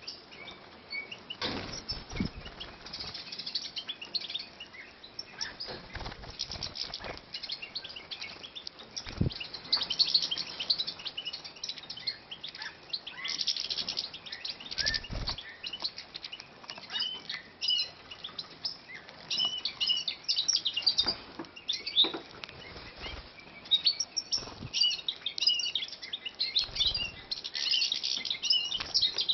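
Captive breeding finches, European goldfinches and bullfinches, chirping in quick, high twittering notes, with scattered flutters of wings and knocks as birds move about.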